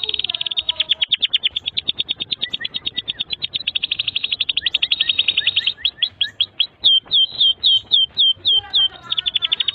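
Domestic canary singing: a long, rapid trill of clipped high notes, changing about seven seconds in to a slower run of swooping notes, about four a second, then back to a fast trill near the end.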